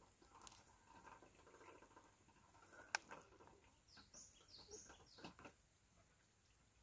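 Near silence with faint bird chirps: a few short high chirps about four to five seconds in. Soft rustling and one sharp click about three seconds in.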